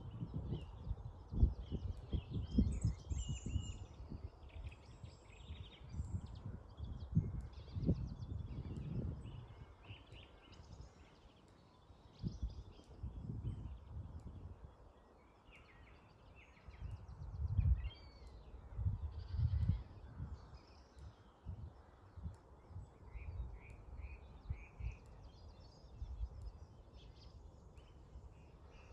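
Many small birds chirping and calling in quick, overlapping phrases. Gusty breeze buffeting the microphone comes and goes as a low rumble, the loudest sound, easing off about halfway through before picking up again.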